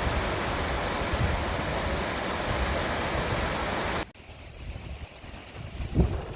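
Steady rush of Hardraw Force, a 100-foot single-drop waterfall, plunging into its pool. About four seconds in it cuts off suddenly to a quieter low rumble, with wind buffeting the microphone and a thump near the end.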